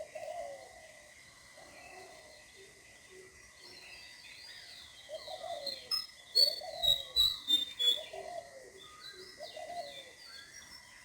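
Morning birdsong: several birds calling, with short arched calls repeating about once a second and bursts of high, quick chirps that are loudest past the middle. A thin steady high tone runs underneath.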